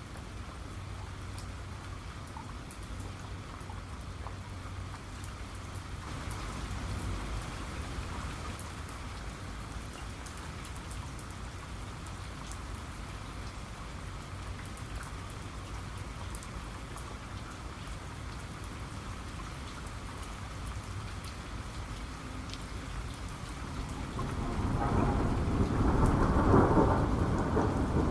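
Steady rain falling, with scattered drops ticking on a surface and a low rumble of thunder. About 24 seconds in, a louder roll of thunder swells and carries on to the end.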